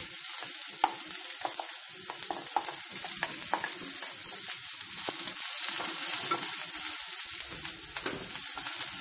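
Sliced onions sizzling in hot coconut oil in a frying pan, stirred with a wooden spatula that scrapes and clicks against the pan now and then.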